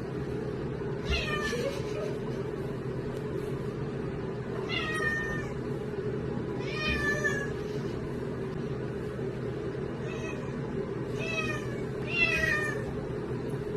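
Domestic cat meowing repeatedly, about six separate meows that each fall in pitch, over a steady low background hum.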